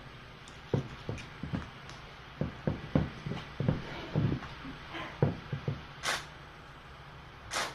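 Cats and kittens at play: a string of irregular soft thumps and knocks from paws and toys, then two short hissing bursts near the end.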